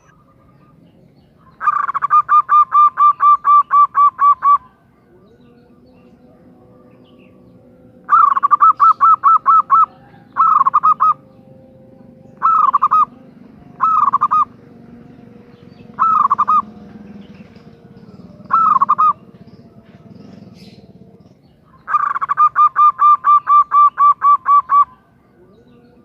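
Female zebra dove (perkutut) calling: long rapid trains of pulsed coos, about four a second for roughly three seconds, near the start and again near the end, with a shorter train and five short separate calls in between.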